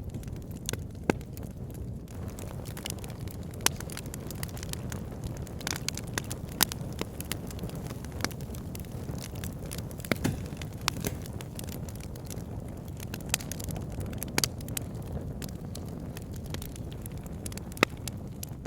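Burning logs crackling and popping: irregular sharp snaps, a few louder than the rest, over a steady low rumble of the flames.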